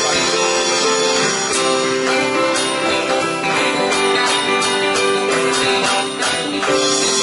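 Instrumental passage of a band's song: strummed guitar chords with a jingling percussion beat and no singing.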